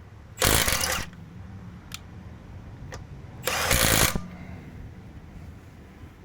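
12V cordless impact wrench hammering in two short bursts of about half a second each, roughly three seconds apart, trying to break loose lug bolts that have been tight for months. A couple of light clicks fall between the bursts.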